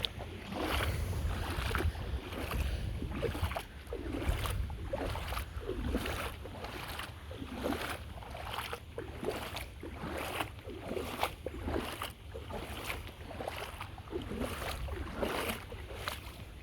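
Bare feet wading through shallow lake water, a splash with each step at walking pace, about one and a half steps a second. Wind rumbles steadily on the microphone underneath.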